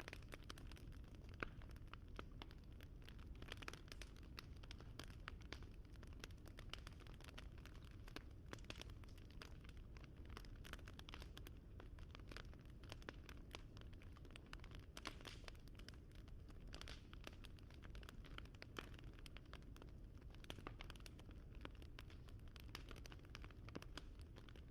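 Wood fire crackling softly: a steady stream of small pops and snaps over a low rumble, with one louder pop about a second and a half in.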